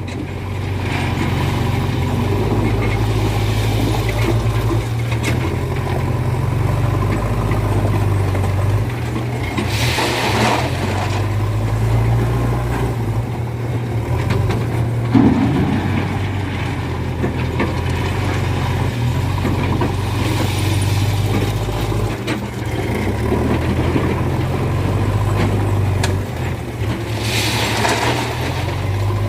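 Diesel engines of a JCB backhoe loader and a Mahindra 575 tractor running steadily while the backhoe loads the tractor's tipper trailer. Two brief rushing swells come through, about ten seconds in and near the end.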